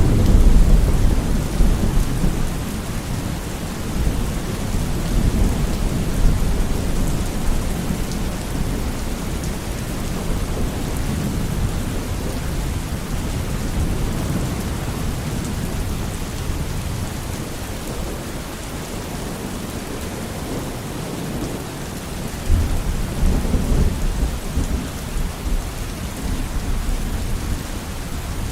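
Steady rain pouring, with low rolls of thunder swelling at the start and again about two-thirds of the way through.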